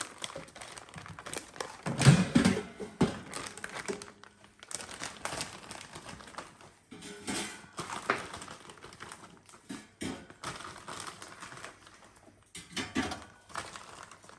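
Plastic packet of frozen croquettes crinkling and rustling on and off as it is handled, with a few sharp clicks.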